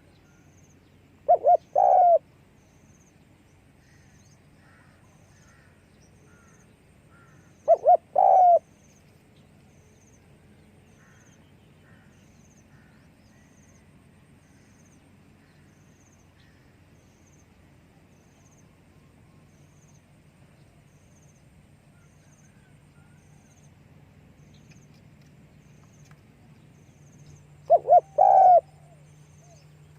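Spotted dove cooing in three short phrases of low coos: about a second in, around eight seconds, and near the end. Faint chirps of other birds can be heard between them.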